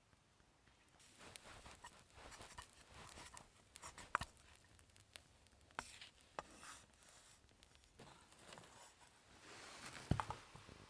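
A cooking utensil scraping and knocking in a pan as fried rice is stir-fried: short scraping strokes with a few sharp clicks, the loudest knock just before the end.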